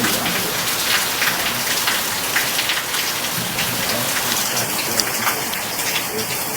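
Steady summer rain falling hard, with many close drops striking as sharp taps over an even hiss.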